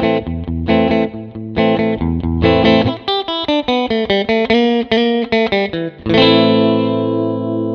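Electric guitar played surf style through a Mosky spring reverb pedal. It starts with short rhythmic chord stabs, moves into a quick run of picked single notes, and about six seconds in hits a chord that rings out and slowly fades in the reverb.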